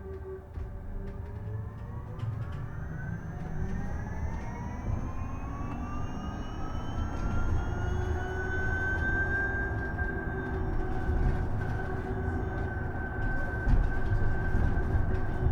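Isuzu Erga EV electric bus's drive motor whining, the whine rising in pitch as the bus pulls away and gathers speed, then holding steady at cruising speed, over a low road rumble.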